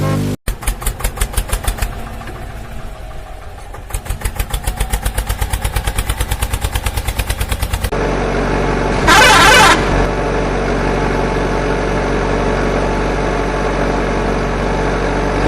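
Vehicle engine chugging in fast even pulses, then running steadily, with one short horn blast about nine seconds in.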